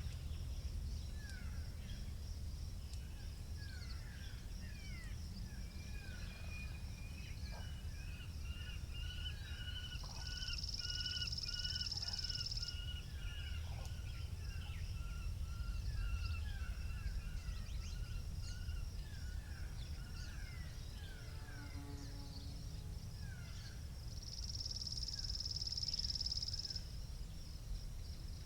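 Spring countryside ambience: wind rumbling on the microphone under birds chirping and singing throughout. A high, steady pulsing trill runs all the way through and swells louder twice. A single harsh caw comes about three-quarters of the way in.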